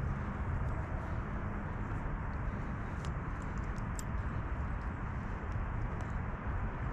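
Steady low outdoor rumble with a few faint sharp clicks about three and four seconds in, as a dog-proof raccoon trap is re-cocked by hand.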